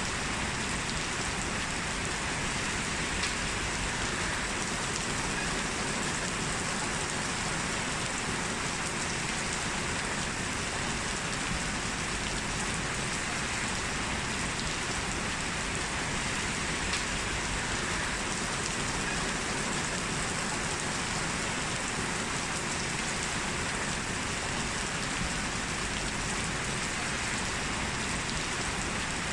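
Heavy rain falling steadily, a dense even hiss with occasional faint drop ticks.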